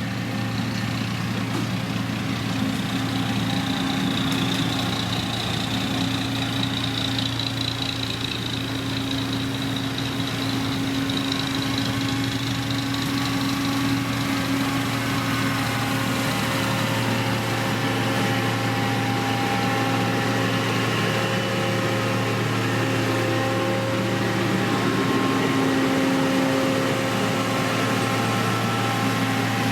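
Heavy construction machine's diesel engine running steadily.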